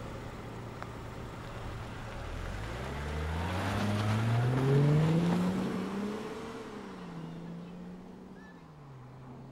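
Car engine running at low revs, then revving up as the car pulls away, rising steadily in pitch to its loudest about five seconds in. It then eases off and fades as the car drives away, dropping in pitch again near the end.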